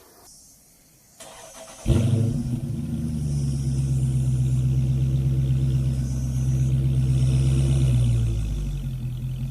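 Chrysler 300 SRT's 392 HEMI V8 starting: a click, then the engine catches abruptly about two seconds in with a brief flare and runs at a steady idle. The idle settles a little lower and quieter near the end.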